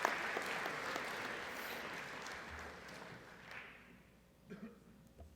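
Audience applauding, the clapping fading away over the first three or four seconds and dying out.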